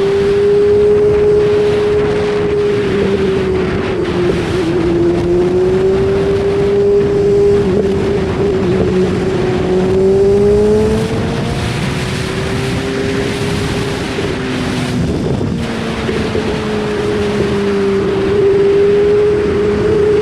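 BMW S1000RR inline-four engine running at speed, its pitch rising and falling gently as the throttle is eased on and off, under a steady rush of wind noise.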